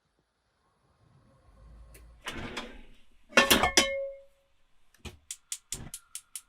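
Objects being handled: a low rumble and rustle, then a loud clattering knock with a brief metallic ring, followed by a fast run of sharp clicks, about four a second.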